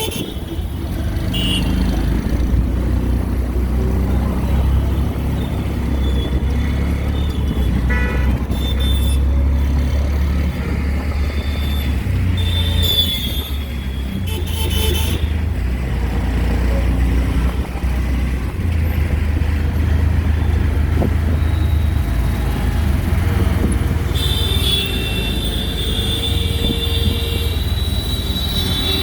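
Auto-rickshaw engine running with a steady low drone as it moves through street traffic. Horns honk briefly twice midway, and one sounds for several seconds near the end.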